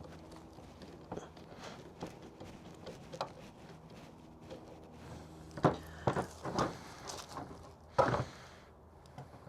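Hard plastic fan mount being handled and pushed into place against the radiator, with scattered light clicks, then a quick run of sharp knocks about six seconds in and one more a couple of seconds later. The plastic is a tight fit and won't line up easily.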